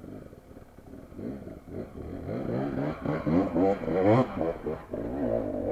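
Dirt-bike engine being revved in quick uneven surges of throttle, pitch rising and falling repeatedly, growing louder about halfway through.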